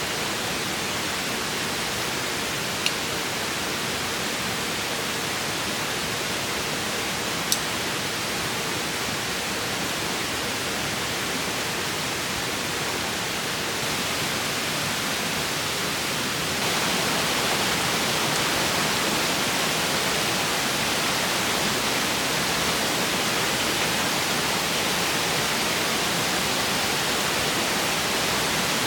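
Steady rushing of river water, an even hiss that gets a little louder and brighter about halfway through. Two brief sharp clicks come in the first few seconds.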